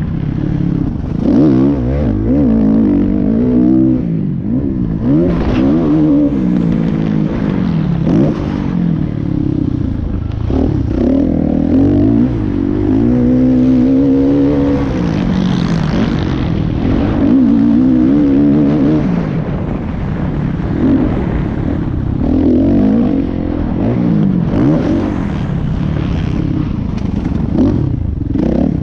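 Motocross bike engine revving hard, its pitch rising and dropping back over and over as the throttle is worked.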